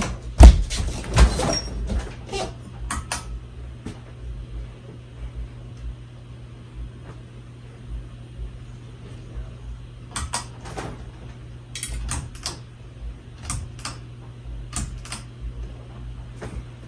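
Steady low electric hum of a 52-inch Hunter Low Profile II ceiling fan's motor running, with scattered sharp clicks and knocks over it, the loudest in the first two seconds.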